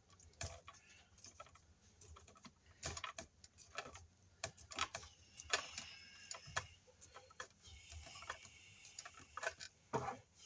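Irregular light clicks and ticks of a plastic wire nut being twisted onto four bare copper ground wires, with small handling noises.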